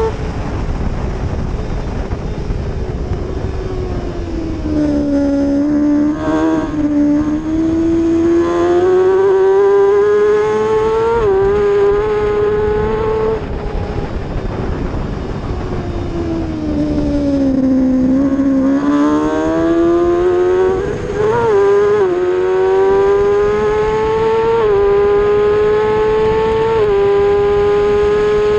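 Racing motorcycle engine at high revs. Its pitch falls as it slows for a corner, then climbs through a run of upshifts, each a short dip in pitch. About two-thirds of the way through it slows again, gives a quick blip and climbs through upshifts once more, over steady low wind rumble.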